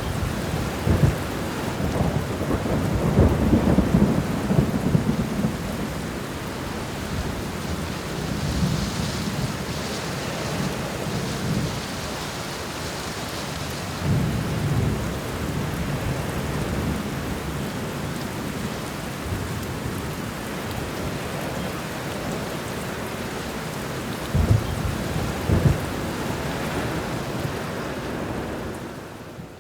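Steady rain with repeated low rumbles of thunder, the heaviest in the first few seconds and two short, sharper claps near the end. The storm sound fades away at the very end.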